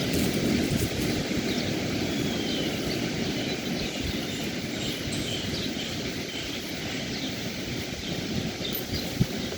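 Beach ambience: a steady low rush of surf and wind, with many short, faint bird chirps and calls scattered through it.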